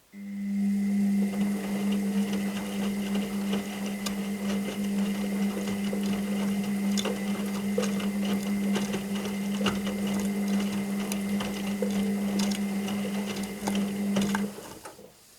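Washing machine drum motor starting up and turning the drum with a steady hum and irregular clicking and rattling, then stopping about fourteen seconds later: one tumble stroke of the wash cycle between pauses.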